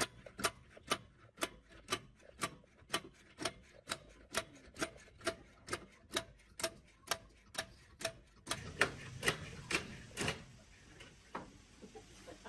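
Evenly spaced sharp clicks or light strikes, about two a second, becoming louder for the last few before they stop about ten seconds in.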